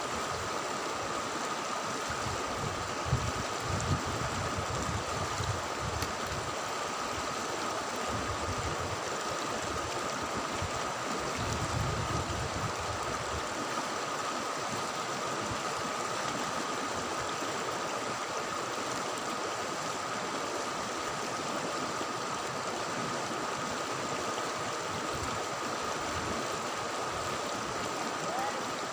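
River water flowing steadily, a continuous rush, with a thin steady high tone running through it. Low rumbles come and go in the first dozen seconds.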